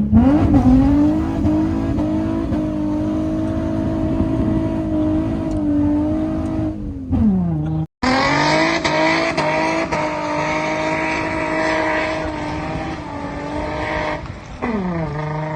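Nissan Skyline 350GT's 3.5-litre V6 engine revved hard under acceleration and held high, with the revs falling away about seven seconds in. There is a sudden break about eight seconds in, then the engine is held high again and drops back near the end.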